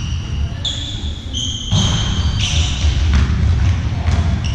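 Athletic shoes squeaking on an indoor sports hall floor during a ball game: several short, high squeaks at different pitches, some overlapping, over a continuous low rumble from the hall.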